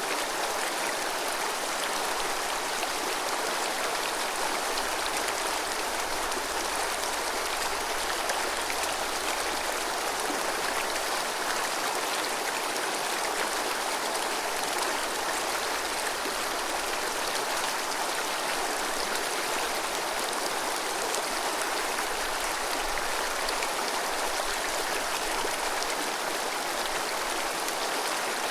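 Azusa River, a clear snowmelt-fed mountain river, babbling steadily.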